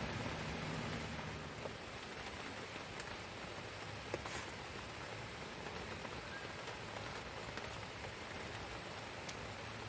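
Steady rain falling, with a few sharp ticks of single drops striking.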